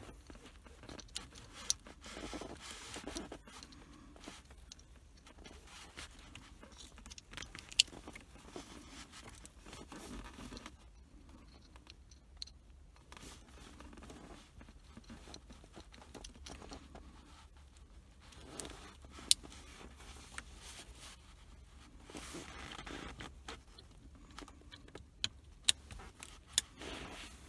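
Quiet handling noise of a cable and plastic connectors being worked under a car's steering column: an uneven rustling scrape broken by several sharp clicks, most of them close together near the end.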